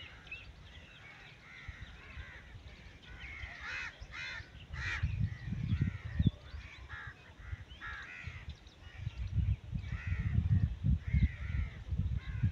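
Birds calling, many short harsh calls in quick succession. A low rumble comes and goes from about five seconds in.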